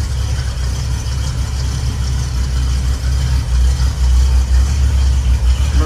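Small-block 350 V8 of a 1960 Chevrolet C10 pickup idling with a steady, deep exhaust rumble, a little louder from about halfway through.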